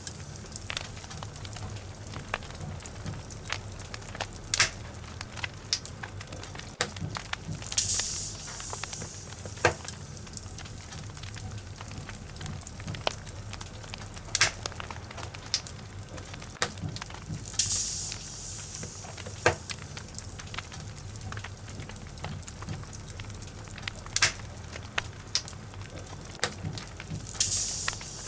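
Wood fire burning in a fireplace: logs crackling with scattered sharp pops and a soft hiss, which swells about every ten seconds.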